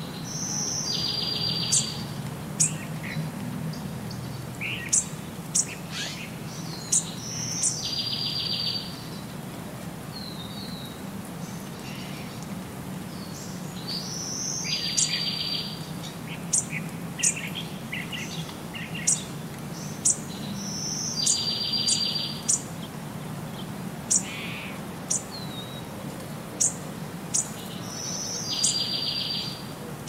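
Wild songbirds singing and chirping. One bird repeats the same phrase about every seven seconds, a short high note followed by a buzzy trill about a second long, while others give many short, sharp, high chirps in between. A steady low background noise runs underneath.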